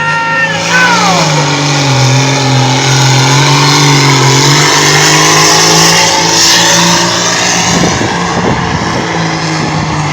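A pulling vehicle's engine running loud and hard under load during a pull. Its pitch drops about a second in and then holds steady, turning rougher around eight seconds in.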